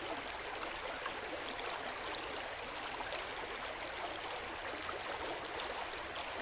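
Steady, soft hiss of flowing water, like a trickling stream.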